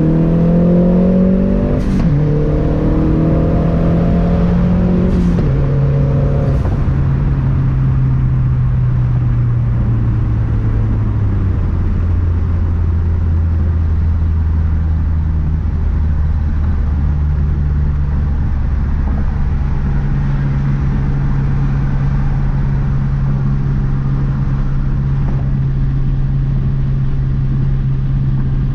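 Turbocharged 2.3-litre four-cylinder engine of a 2012 Mazdaspeed 3 with a big turbo, accelerating hard with its pitch climbing, broken by quick upshifts about two and five seconds in. After that the engine settles into steady cruising, dropping to a lower speed near the middle.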